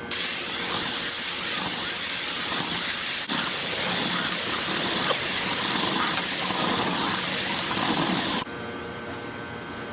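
Loud steady hiss of air rushing through a dryer vent duct during cleaning. It starts abruptly, breaks off for an instant about three seconds in, and cuts off suddenly about eight seconds in, leaving a faint steady hum.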